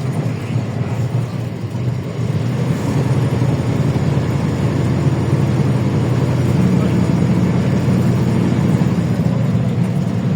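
LiAZ-677M bus's V8 petrol engine running under way as a steady low drone. The engine note climbs a little about two seconds in and again around the middle.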